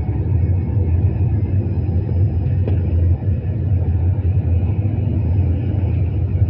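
Passenger train rumbling past at low speed: a steady, loud low rumble of wheels and running gear on the track.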